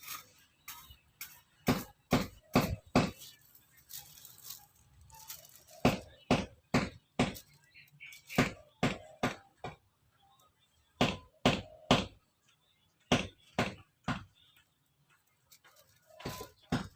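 Irregular run of sharp knocks and taps, about one to three a second with short pauses, from hand tools striking while bird-cage spokes are worked by hand.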